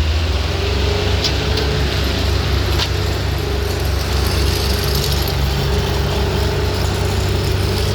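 Engine of a large road vehicle running steadily with a deep, even rumble. Two faint clicks come in the first few seconds.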